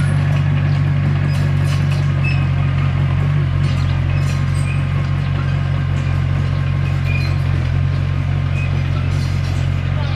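Diesel engine of a Komatsu D21P crawler bulldozer running steadily at an even pitch, with a few faint, short high squeaks.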